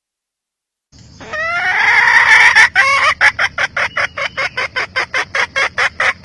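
Red junglefowl hen calling: about a second in, a loud drawn-out note that rises and holds, then a fast even run of short clucks, about six a second.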